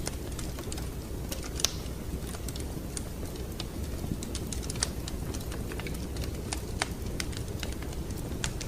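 Wood fire crackling in a fireplace: irregular sharp pops and snaps over a steady low rumble, with one louder pop about one and a half seconds in.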